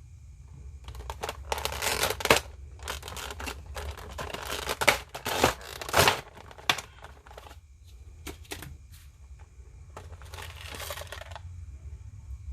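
Action figure packaging being handled: plastic and cardboard rustling and crinkling in three bursts, with a few sharp clicks in between.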